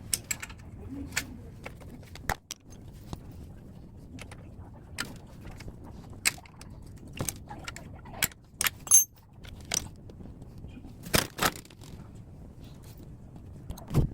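Scattered metal clinks and knocks at irregular intervals, a few with a brief high ring, as a scrapped air-conditioner outdoor unit is dismantled.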